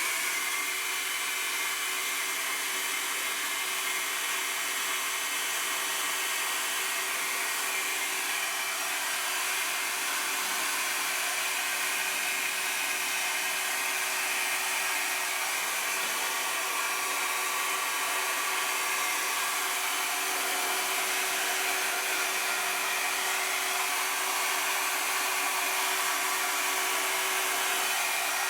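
Handheld electric hot-air blower switched on right at the start and running steadily: an even rushing of air with a faint steady hum and a thin whine, the kind of blower used to warm vinyl wheel stickers so they soften and conform during fitting.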